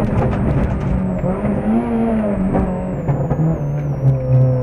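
Citroën Saxo VTS rally car's engine heard from inside the cabin, pulling hard on a tarmac stage. Its note drops in steps from about three and a half seconds in as the car slows for a tight corner.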